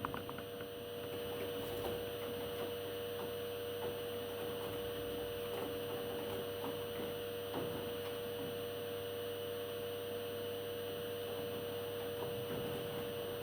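Steady hum with a few faint clicks.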